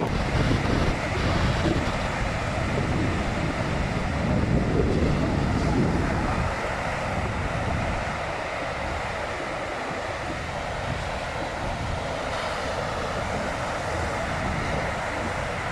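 Sea surf washing onto the shore, with wind buffeting the microphone, heaviest in the first six seconds and then easing.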